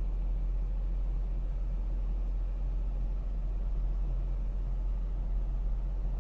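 Steady low rumble with a faint even hiss above it.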